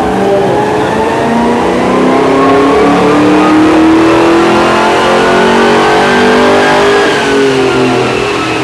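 A ute's engine on a chassis dyno during a power run. The revs climb steadily for about seven seconds, then the throttle is lifted and the revs fall away near the end.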